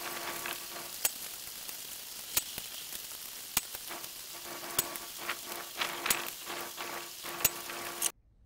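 Heavy rain pouring down, a steady hiss, with sharp ticks about every second and a quarter. The sound cuts off suddenly near the end.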